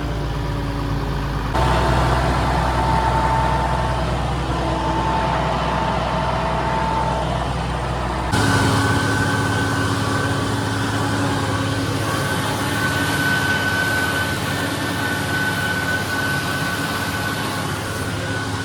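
Tractor engine running steadily while mowing hay, with a steady whine riding over it; the sound changes abruptly twice, about a second and a half in and about eight seconds in, as separate clips are spliced together.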